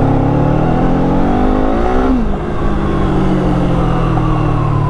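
Kawasaki Eliminator motorcycle engine accelerating hard: the revs climb, drop at a gear change about two seconds in, then climb again more slowly in the next gear.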